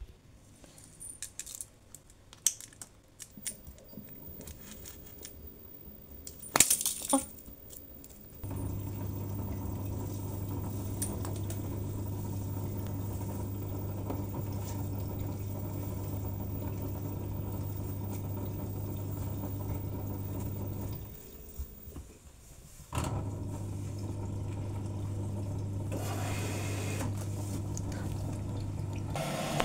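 Light clicks and rattles, then a washing machine motor humming steadily for about twelve seconds, stopping for two seconds and starting again, as in a wash cycle's run-and-pause.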